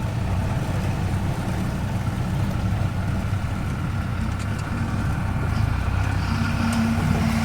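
Off-road vehicle's engine running steadily at low speed, a continuous low rumble, with a steadier hum joining about six seconds in.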